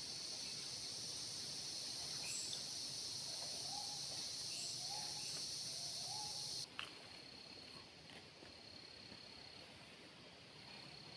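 Forest insects shrilling in a steady high-pitched chorus. The loudest part stops abruptly with a click about two-thirds of the way through, leaving a fainter, thinner drone. Three short low animal calls sound in the middle.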